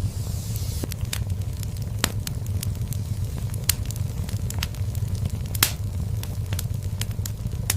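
Wood fire crackling in a fireplace: irregular sharp pops and snaps over the steady low rumble of the flames, with two louder pops, one a little past a third of the way through and one past two-thirds.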